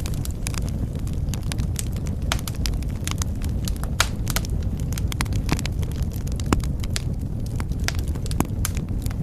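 Wood fire crackling in a fireplace: irregular sharp pops and snaps, a few louder ones, over a steady low rumble of flame.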